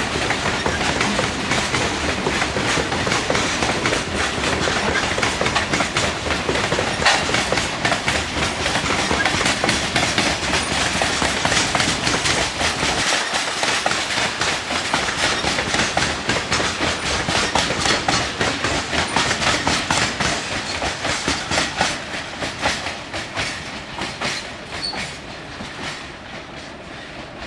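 Loaded coal train cars rolling past, their wheels clicking rapidly over the rail joints, with a faint wheel squeal. The sound fades over the last few seconds.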